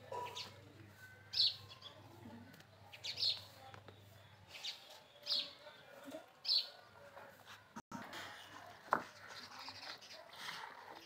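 Birds chirping: short high calls that repeat every second or two, with a brief break about eight seconds in.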